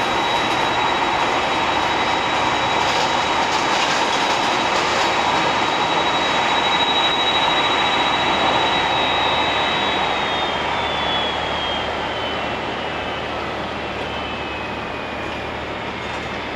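Landing Airbus A330 jet's engines, a steady high whine over a broad rushing noise. About ten seconds in, the whine glides down in pitch and the sound slowly eases off.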